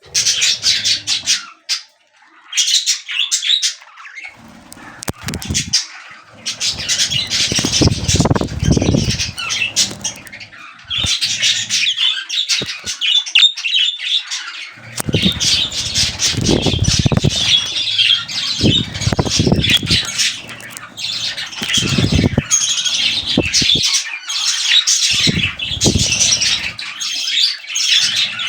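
Budgerigars chattering and squawking continuously, a dense run of high warbles, chirps and harsh squawks, with several short bursts of wing flapping.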